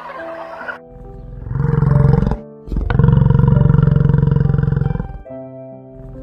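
A big cat roaring: a rising roar about a second in, then a longer, louder one, both with a rough pulsing grain, over background music with steady held notes.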